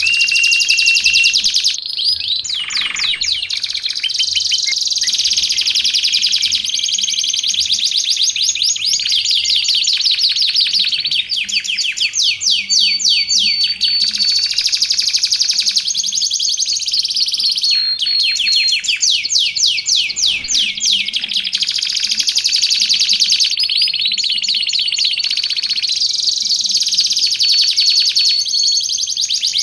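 Domestic canary singing without a break: rapid trills and rolls, switching to a new phrase every few seconds, with a few short held whistle notes in between.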